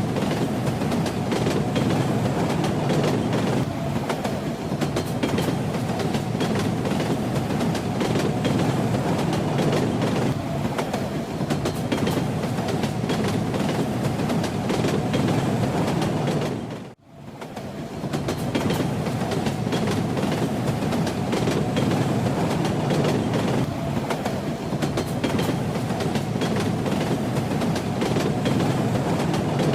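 Train running with a steady rumble and the clack of its wheels over the rails. About halfway through, the sound drops out almost to silence for a moment, then fades back in.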